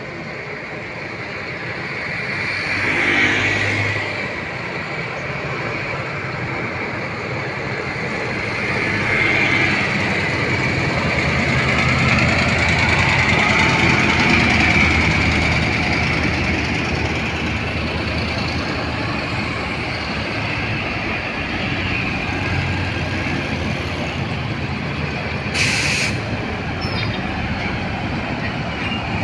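Road traffic: vehicle engines and tyre noise running steadily, swelling as vehicles pass, with one sharp click near the end.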